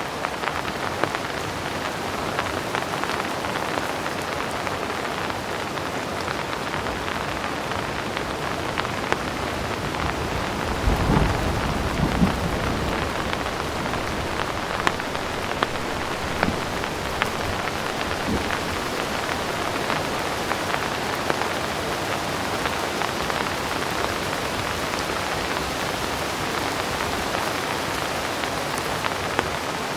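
Heavy rain falling steadily, with scattered sharper drops. About ten seconds in, a roll of distant thunder rumbles for two or three seconds.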